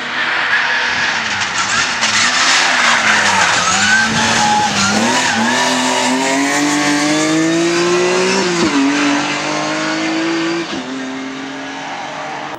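BMW M3 rally car engine rising and falling in pitch for a few seconds, then accelerating hard, its pitch climbing to a gear change about nine seconds in, and easing off near the end, with tyre noise throughout.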